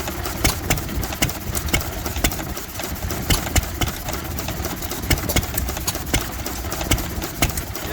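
Vintage stationary engine running at a steady low speed: a low rumble with sharp clicks and knocks several times a second.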